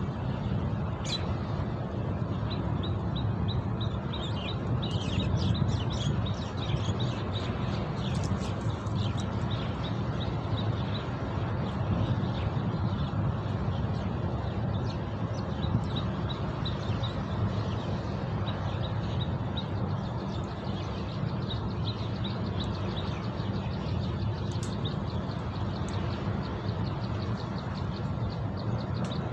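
Wild birds chirping in quick, repeated series of high notes, over a steady low rumble.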